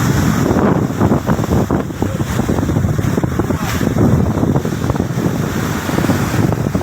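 Big sea waves surging onto a beach, with strong wind buffeting the microphone in a steady low rumble.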